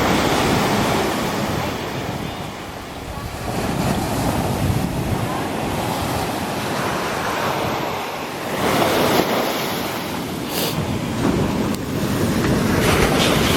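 Surf breaking on a beach, a steady wash of noise that swells and falls back every few seconds, with wind buffeting the microphone.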